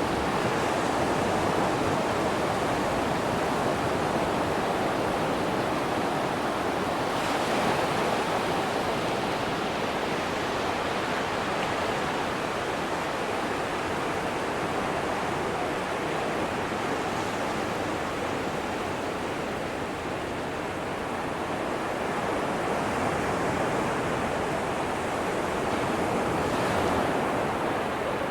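Ocean surf washing continuously onto a sandy beach, a steady wash of breaking waves that swells a little around eight seconds in and again near the end.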